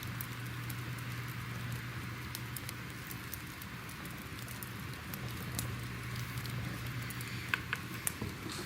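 Crackling fire ambience: scattered sharp crackles and pops over a steady hiss and a low hum, with a few louder pops near the end.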